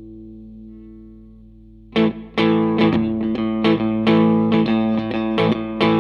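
Electric guitar, a Fender Stratocaster, played through a Line 6 Helix amp-and-cab model: a held chord rings out and fades. About two seconds in, a new passage of quickly picked chords and notes begins, much louder.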